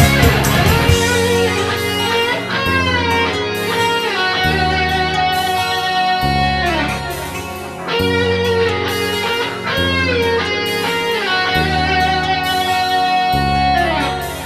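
Electric guitar playing a solo, its notes bending and sliding between pitches, over a bass line that moves every second or two: an instrumental break in a rock song played live.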